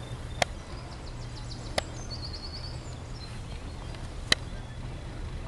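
Open-air ambience: a small bird chirping, a short run of quick, high, falling notes, over a steady low rumble, with three sharp clicks spaced a second or two apart.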